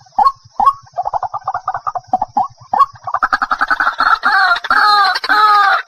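White-breasted waterhen (ruak-ruak) calling: a run of repeated croaking notes, spaced at first, quickening into a fast chatter about a second in, then breaking into louder, longer 'kru-ak' notes about two a second from about halfway.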